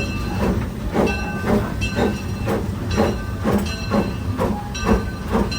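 1875 narrow-gauge steam locomotive No. 5 running, heard from inside its cab: a steady rumble with even beats about twice a second.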